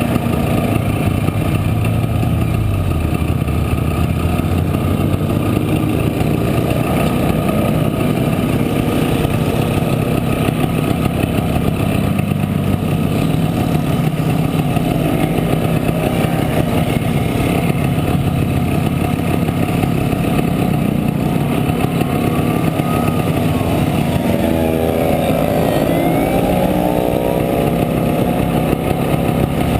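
Single-cylinder two-stroke engine of a 1967 Montesa Impala Comando 175 running steadily. In the second half, engine notes rise and fall and cross each other.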